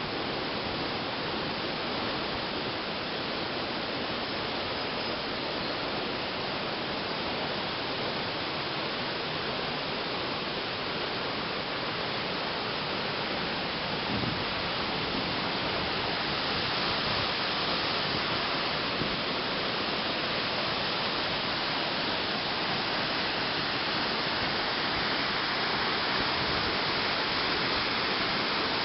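Steady rush of a tall waterfall, about 60 m high, with water falling and splashing continuously; it grows slightly louder about halfway through.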